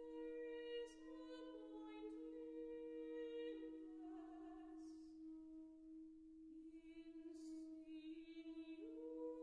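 Saxophone and classical voice holding long, soft notes together: one low note sustained throughout while the other line holds, slides down about four seconds in and returns near the end, with a few audible breaths between phrases.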